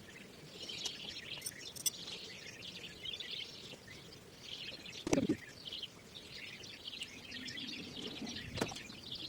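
Small birds chirping and singing in a continuous chatter of calls. There is a brief louder knock about halfway through and a smaller one near the end.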